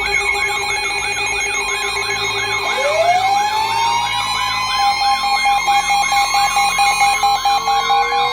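Several electronic siren and alarm tones sounding together: a fast rising-and-falling yelp about three times a second over steady tones, with a siren winding up about three seconds in and another slowly rising toward the end.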